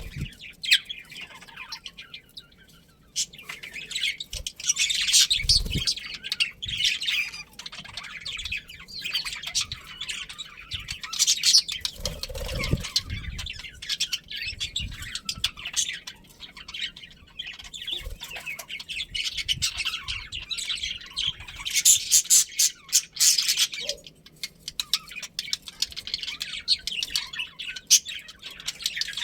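A group of budgerigars chirping and chattering continuously in rapid high twitters, busier in a few spells. A few low thuds come through, once around a quarter of the way in and again near the middle.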